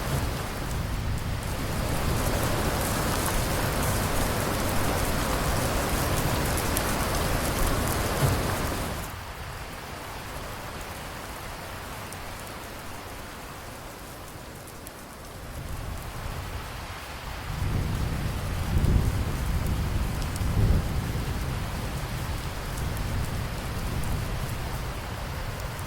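Steady rain with rolling thunder. The thunder rumbles through the first nine seconds and then dies away, leaving the rain alone. It rolls in again about eighteen seconds in, with two louder cracks shortly after.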